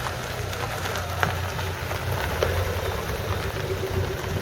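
A vehicle engine running at a steady idle, with scattered light crackles over it.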